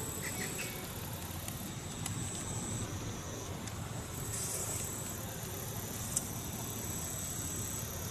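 Steady outdoor riverbank ambience: flowing river water and wind, with a very high, thin steady tone that comes and goes in stretches of a few seconds, and one sharp tick about six seconds in.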